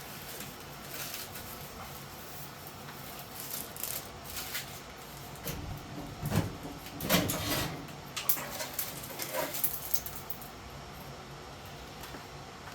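Handling noise from work on an HVAC duct: scattered rustles and clicks, with a few louder knocks and thumps about halfway through.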